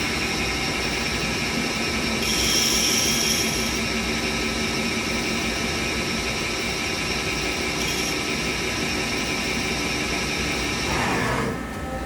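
Okuma Cadet L1420 CNC lathe running a turning cut on aluminum tubing: a steady whine from the spindle and machine over a hiss. Its pitch falls sharply near the end.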